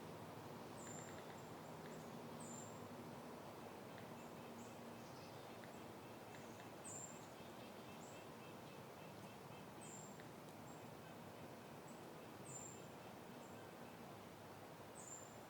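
Faint, steady wind noise, with a small bird giving a short, high chirp about every two to three seconds.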